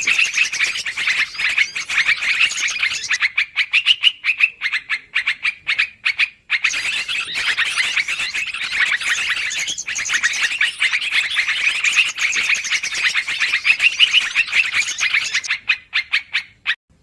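Small songbirds giving dense, rapid, noisy chattering calls in a bird-lure recording. The chatter runs almost without pause, breaking into choppier separate calls around the middle and again near the end.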